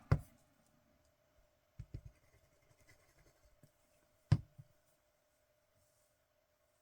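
A few light knocks and clicks from craft tools and paper being handled on a desk, the loudest about four seconds in, over a faint steady hum.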